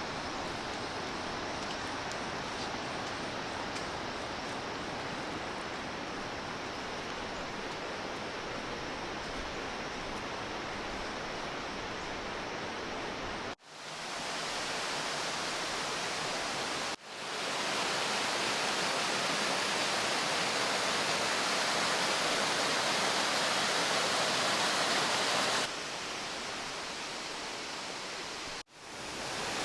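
Steady rushing of a mountain stream or waterfall. The rush drops out abruptly a few times and comes back at a different level, as at cuts between shots.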